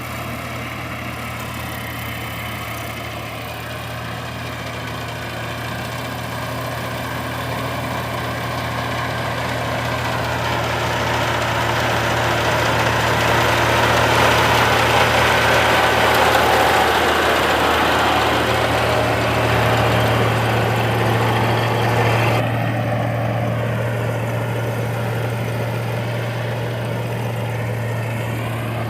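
Engine of a heavy farm machine running steadily with a low hum. It grows louder towards the middle and then eases off, and its higher hiss cuts away suddenly a little after two-thirds of the way through.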